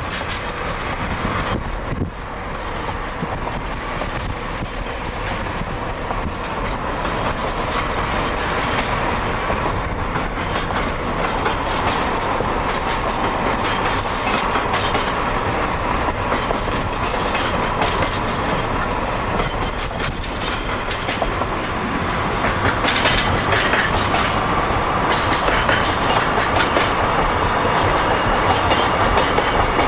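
Freight train worked push-pull by DD51 diesel locomotives running past, its wheels clacking steadily over the rail joints, growing gradually louder.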